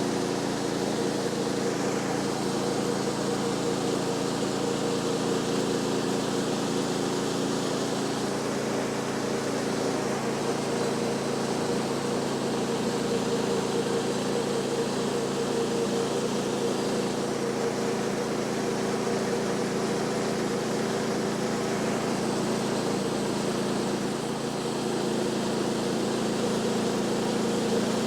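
An engine running steadily at a constant speed, with a slight change in its tone about ten seconds in.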